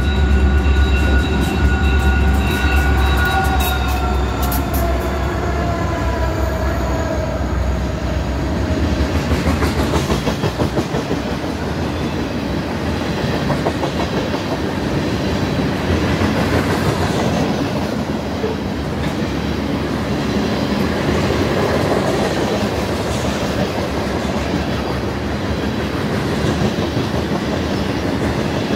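Diesel train passing close by. A horn chord falls in pitch and fades out over the first several seconds over a deep locomotive rumble, then the cars roll past with a steady rumble and clickety-clack.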